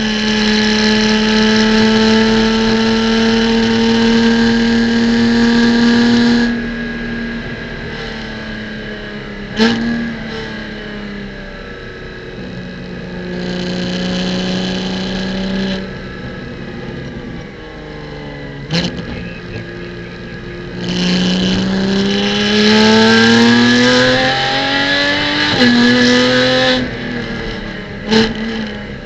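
Porsche Cayman GT4 Clubsport's flat-six engine heard from inside the car, pulling hard with its pitch slowly climbing, then lifting off. It gives sharp short rev spikes as it brakes for corners about a third and two thirds of the way in. It pulls hard again with a rising pitch and one gear change, then lifts and gives more short rev spikes near the end.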